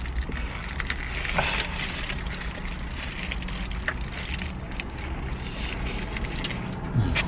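Steady low hum of a car cabin, with scattered short clicks and rustles of people eating sandwiches.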